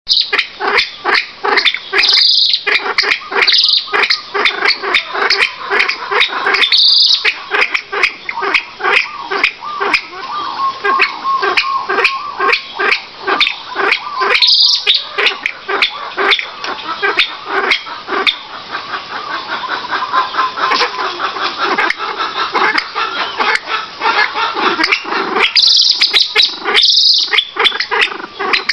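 A dense chorus of rapid, overlapping animal calls, with a handful of louder high-pitched squawks standing out.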